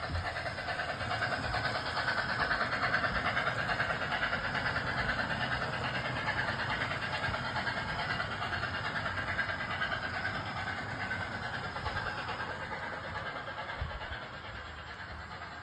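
Model train running along the layout track, a steady whirring rattle of motor and wheels that is loudest a few seconds in and then slowly fades as it moves away.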